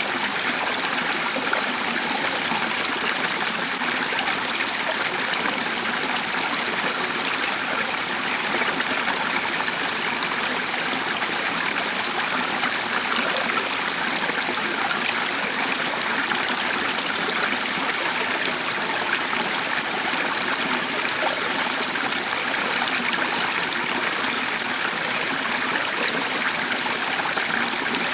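Stream water flowing, a steady, even rush with no let-up.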